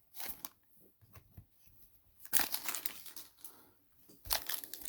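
Crinkling and crackling of plastic packaging being handled and torn open: a brief crackle at the start, a longer run of crinkling a little over two seconds in, and a sharp knock near the end.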